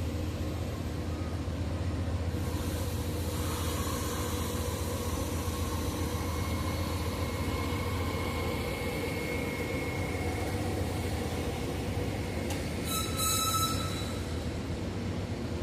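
Train moving through the station, with a steady low rumble of its locomotive throughout. A thin held wheel squeal comes in midway for a few seconds, and a brief, sharper high squeal follows near the end.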